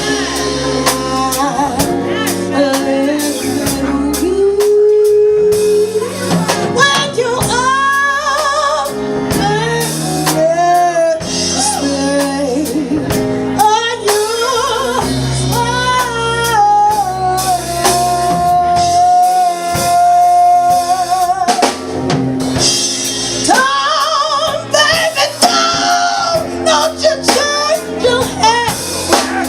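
A woman singing a slow ballad with a live band and drum kit, her voice wavering with vibrato and holding one long note about two-thirds of the way through.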